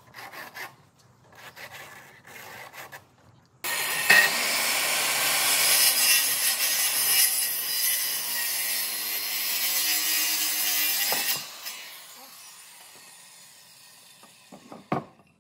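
A power tool cutting wood. A few short scraping sounds come first. About three and a half seconds in, a loud, steady cutting noise starts abruptly, lasts about eight seconds, then stops and fades away.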